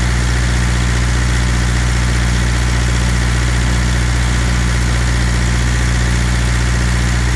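Water truck's engine running steadily at idle, a constant low hum with no change in speed.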